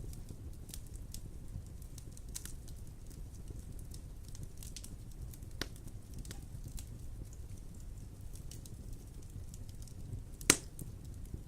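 Wood fire crackling in a fireplace: a low steady rumble of flame under scattered small crackles, with one loud pop about ten seconds in.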